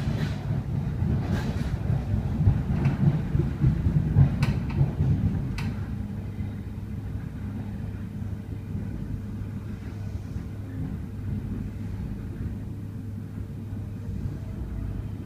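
Inside a Sydney Trains S-set electric train car while running: a low rumble with a steady hum. About five sharp clacks come over the first six seconds, then the ride settles into a steadier, quieter rumble.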